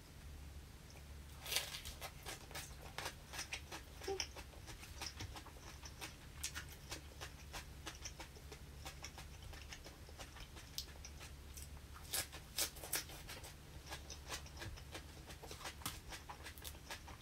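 Eating sounds: irregular crisp crunches and mouth clicks of chewing fresh herb leaves and crispy fried vegetable tempura, over a faint steady low hum.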